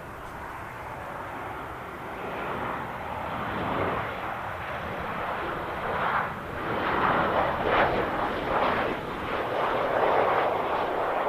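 Jet airliner engine noise growing steadily louder as the aircraft draws near, then swelling and fading unevenly in its second half.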